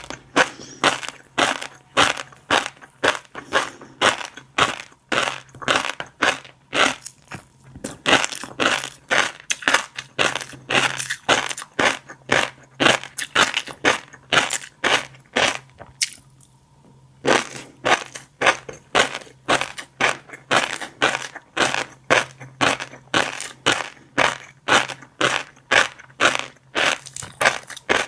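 Close-miked chewing of a mouthful of fish roe: the eggs pop and crunch between the teeth in quick regular bites, about two to three a second, with a brief pause about sixteen seconds in.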